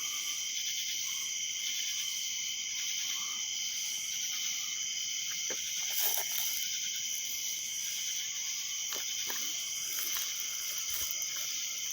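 Steady night chorus of crickets and other insects, a constant high-pitched shrill.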